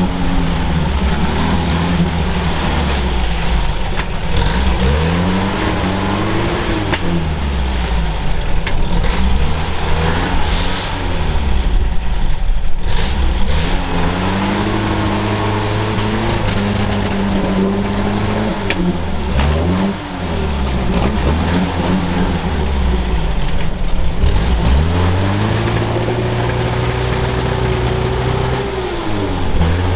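Off-road vehicle engine under load, revving up and falling back over and over as it works through rough ground. Near the end the revs are held high for a few seconds before dropping.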